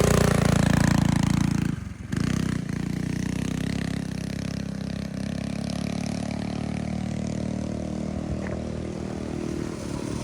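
Small minibike engine running loudly, dropping out for a moment about two seconds in, then running on steadily a little quieter.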